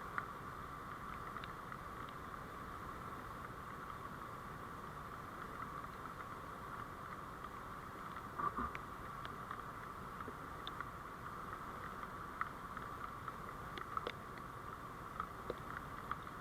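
Steady vehicle running noise as picked up by a dashcam microphone, with scattered light clicks and ticks.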